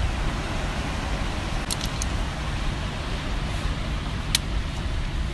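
Steady wind rumbling on the microphone over the wash of the sea, with a few light clicks about two seconds in and one more just after four seconds.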